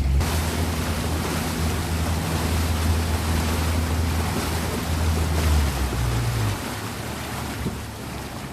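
Boat motor running under steady wind and water rush; the low engine hum drops away about six and a half seconds in, leaving the quieter rush of wind and water.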